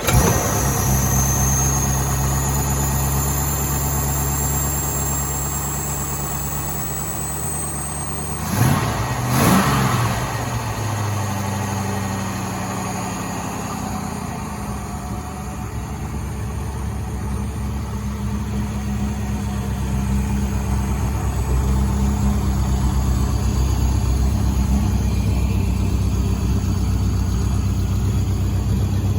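1963 Daimler SP250's 2.5-litre V8 catching from a stone-cold start and settling into a steady idle. About eight seconds in the throttle is blipped twice, the revs rising and falling each time, before it goes back to idling.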